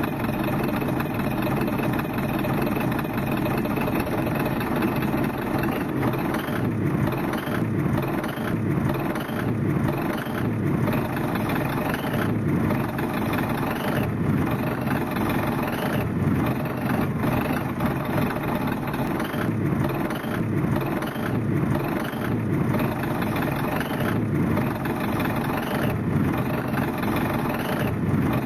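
Tractor engine sound running steadily at a low idle-like pace, with a regular pulse about once a second.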